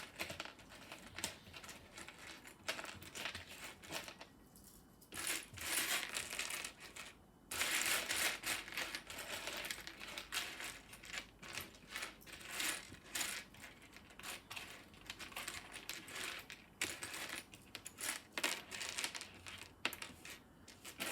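Small plastic Lego pieces clicking and clattering as they are handled and sorted, with two longer spells of dense clattering about five and eight seconds in.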